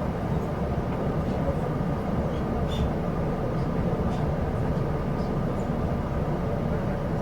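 Steady rumble of a Chu-Kuang Express passenger car running along the line, heard from inside the carriage, with a few faint ticks over it.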